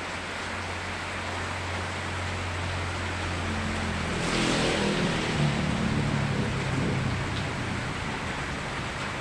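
Steady rain falling, with a low engine-like sound swelling and passing through from about four to eight seconds in.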